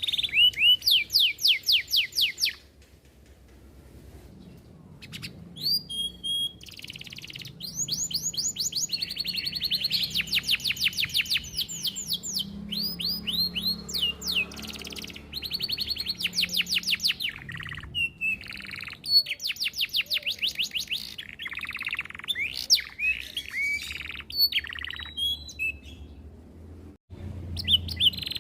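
Domestic canary singing long, fast rolling trills of repeated rapid notes, broken by short phrases and a brief pause a few seconds in.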